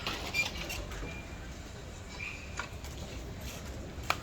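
A few sharp clicks over a low, steady background rumble: a small cluster at the start, one in the middle and a sharper one near the end.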